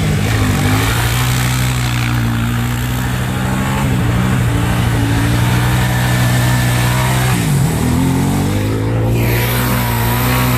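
Small petrol engine running steadily under load, its revs dipping briefly and picking back up twice, once near the start and again about three-quarters of the way through.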